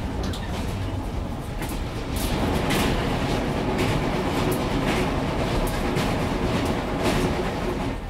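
Inside a JNR Yokosuka Line electric train running along the track: a steady rumble with a faint motor hum, and clicks from the wheels over rail joints every second or so. It gets louder about two seconds in.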